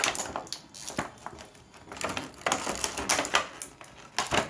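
Thin vacuum-formed plastic packaging tray crackling and clicking in irregular bursts as toy pieces are pried and pulled out of it.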